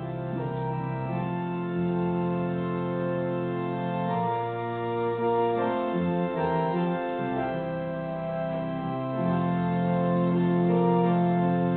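Organ playing held, slow chords, with the notes changing every second or two.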